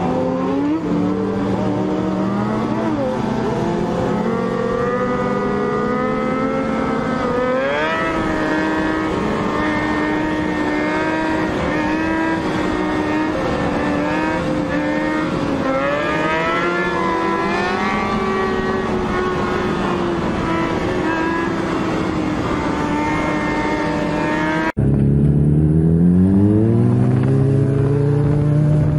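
Sport motorcycle engines at high revs, their pitch rising and falling as the throttle is worked. About 25 s in, a sudden change to another motorcycle engine revving up, its pitch climbing steeply.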